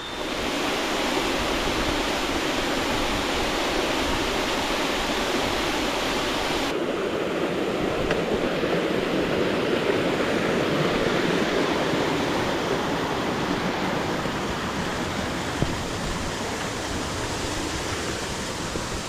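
Rushing water of a waterfall, a steady dense noise without breaks. About seven seconds in, its hiss suddenly turns duller.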